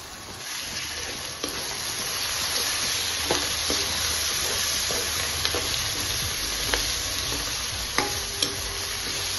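Potatoes, onions and green chillies sizzling in hot oil in a kadai as a metal spatula stirs them, with scattered clicks of the spatula against the pan. The sizzle swells about half a second in as the stirring starts.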